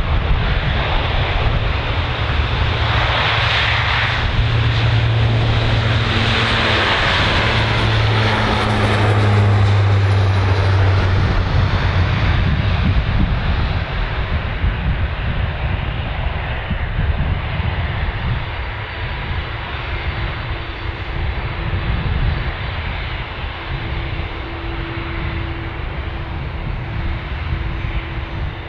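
Jet airliner's engines passing close by: a loud, steady rushing noise with a low hum. The hum drops in pitch about nine seconds in as the plane goes past, and the noise then slowly fades.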